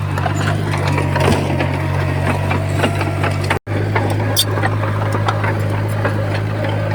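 Bulldozer diesel engine running steadily under work, with scattered clanks and knocks from the tracks, blade and stones. The sound cuts out for an instant a little past halfway.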